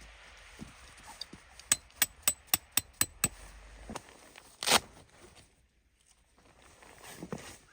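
A quick run of six sharp knocks, about four a second, then a single louder, longer scraping crunch.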